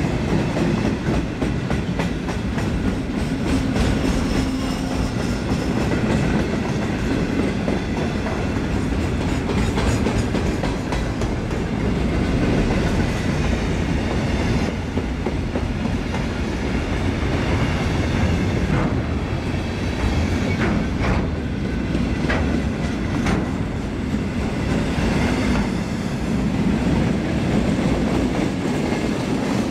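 Freight train's container wagons rolling past at steady speed: a continuous low rumble with the clickety-clack of wheels over rail joints, with a run of sharper clacks in the middle.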